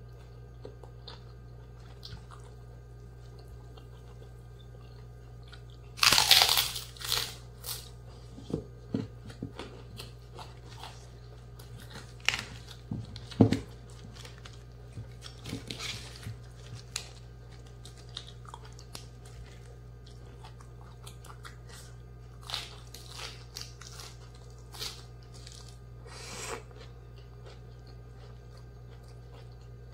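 A person biting and chewing crunchy raw vegetables close to the microphone. There is a loud crunching bite about six seconds in, then scattered smaller crunches and chews, over a steady low hum.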